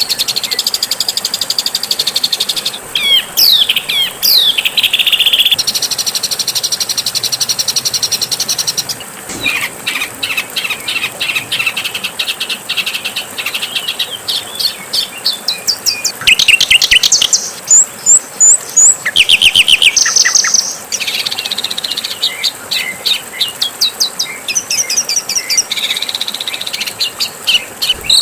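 A medley of songbird song: fast, high-pitched trills, rattles and repeated chirps, switching abruptly to a different bird's phrase every few seconds as spliced recordings follow one another. It is a masteran track, a compilation of song material played to teach caged songbirds.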